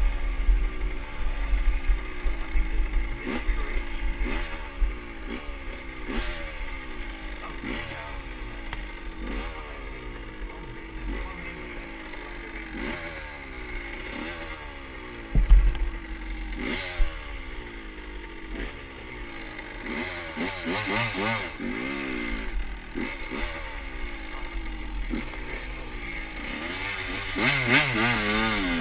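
Motorcycle engine running while riding, its pitch climbing and dropping back again and again as the throttle is worked, over a low rumble of wind on the microphone. A sharp thump about fifteen seconds in.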